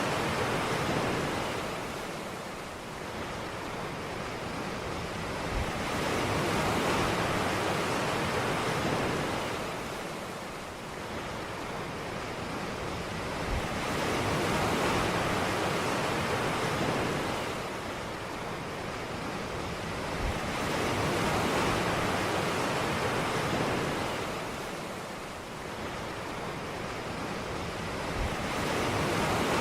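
Ocean surf on a beach: waves washing in and drawing back in slow swells about every seven seconds, each swell led by a brief low thump as the wave breaks.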